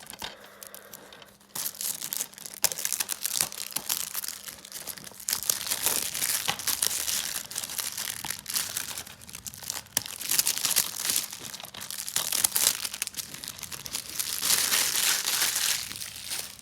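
Plastic shrink wrap being torn and peeled off a DVD case, crinkling and crackling in bursts with short pauses, loudest near the end.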